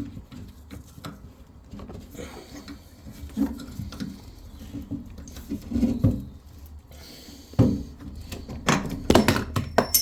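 Metal tools knocking and scraping on an old tap's fixing that won't come loose, with a few sharp metallic clanks near the end.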